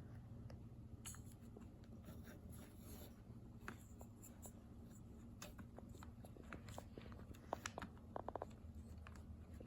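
Faint handling of small plastic kit parts: scattered light clicks and rustles, with a quick run of sharper clicks late on.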